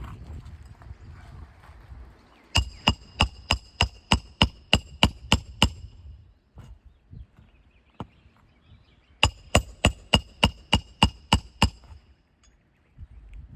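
Hammer striking a steel roof snake to drive roofing nails under a lifted asphalt shingle: two runs of about ten quick, even blows each, about three a second, with a metallic ring.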